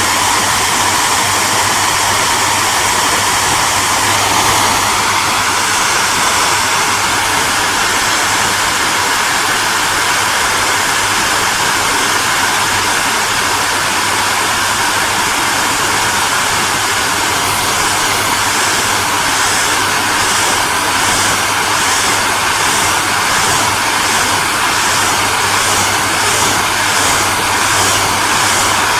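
Hair dryer running steadily: a loud, even rush of blown air over the motor's hum and fan whine. Its tone shifts slightly about four seconds in, and over the second half the high hiss pulses faintly, about one and a half times a second.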